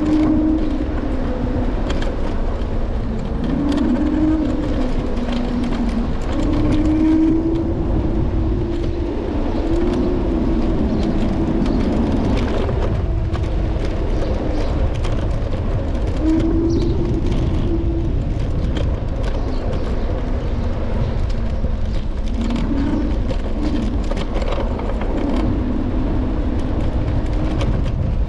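Electric scooter ridden over city pavement, heard through its handlebars: a steady low road rumble with constant small rattles and knocks, and a humming tone that rises and falls with speed.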